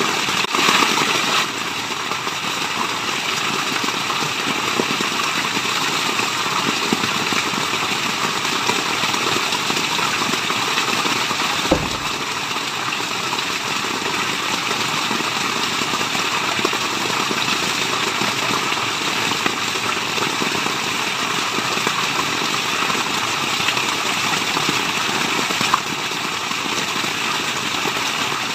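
Steady rushing of a waterfall, an even wash of water noise, with one short knock about twelve seconds in.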